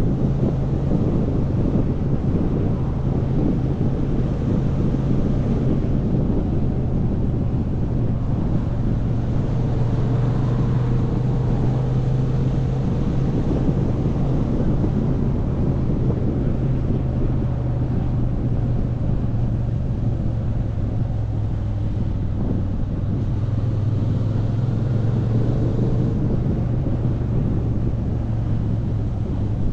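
Motorcycle engine running at a steady cruising speed, its note dipping and rising a little about two-thirds of the way through, with wind rushing over the microphone.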